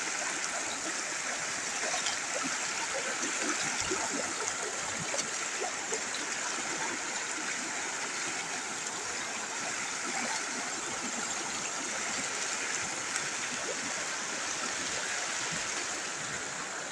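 River water flowing steadily, a continuous rushing hiss of a shallow river running over its bed.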